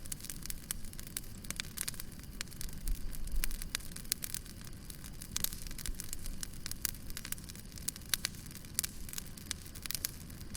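Wood fire crackling: irregular sharp pops and snaps over a low rumble of burning, with a cluster of louder snaps about three seconds in.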